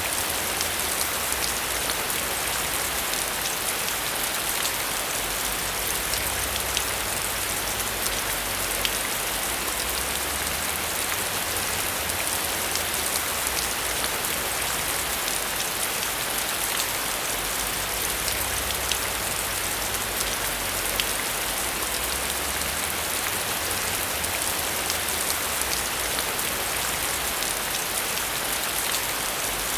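Steady heavy rain, an even hiss with the fine ticks of individual drops striking a surface throughout.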